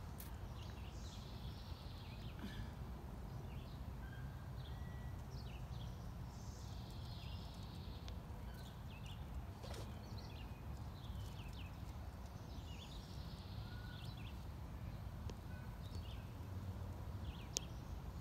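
Small birds chirping and twittering, with many short calls throughout, over a steady low background rumble; a single sharp click near the end.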